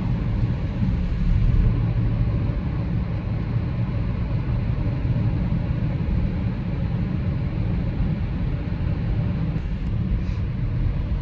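2025 BMW X6M's twin-turbo 4.4-litre V8 running steadily at cruise, a low even rumble mixed with road and tyre noise and no big changes in revs.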